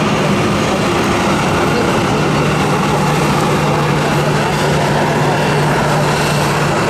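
Jet airliner engines running, a loud steady rush with a low steady hum that sets in about two seconds in.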